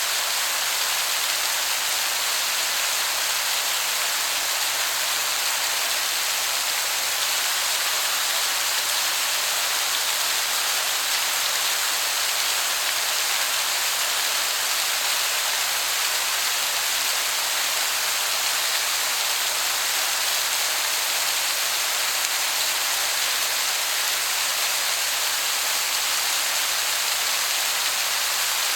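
Waterfall cascading in a steady, even hiss that sounds like heavy rain.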